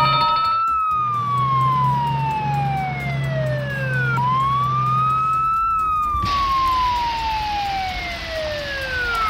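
Fire truck siren wailing through two slow cycles, each rising quickly and then falling away slowly. A low engine hum runs beneath the first half, and a steady hiss comes in about six seconds in.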